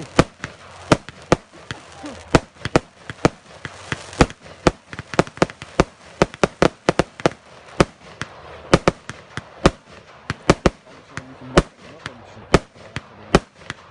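A 108-shot firework cake firing: a rapid, irregular string of sharp bangs, several a second.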